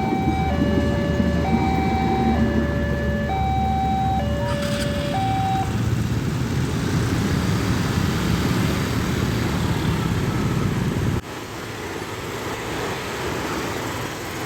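Railway level-crossing warning alarm sounding an alternating high-low two-tone, each tone held under a second, until it stops about six seconds in. Loud rumbling noise runs underneath and drops off abruptly about eleven seconds in.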